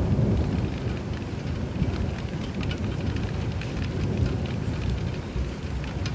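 Steady rain with scattered drop ticks over a low, rolling thunder rumble that is strongest at the start and eases a little after the first second.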